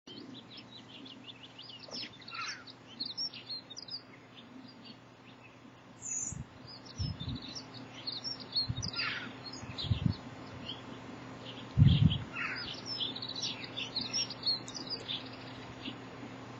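Small birds chirping and singing: many short high chirps with a few falling calls. Several dull low thumps come in the middle, the loudest about twelve seconds in.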